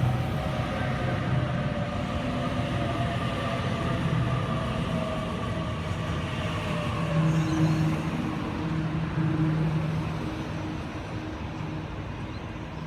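Electric suburban train slowing into the platform, its traction motors whining in several tones that slide down in pitch over about seven seconds. A steady low hum and rumble runs underneath.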